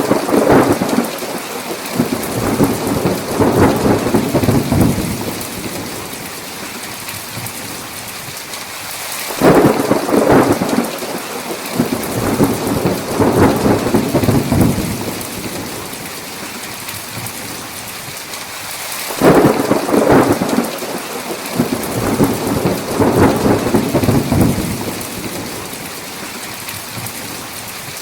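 Steady heavy rain with rolling thunder. Three thunder rolls come at even intervals: one at the start, one about a third of the way in and one about two-thirds in. Each begins sharply and rumbles away over several seconds.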